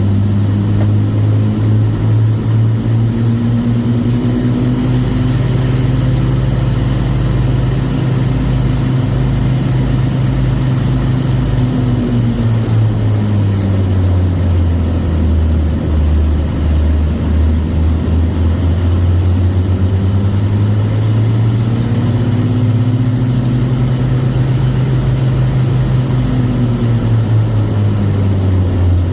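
Avro Lancaster's Rolls-Royce Merlin V12 piston engines running up during a pre-flight engine check. The revs climb and hold for several seconds, drop back to a lower setting, then climb and hold again before easing off near the end.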